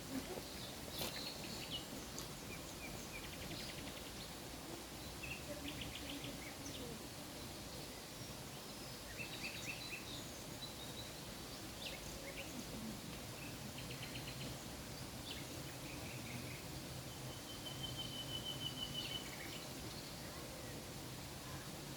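Songbirds calling over steady background noise: scattered short chirps and quick trills, with one longer even trill near the end.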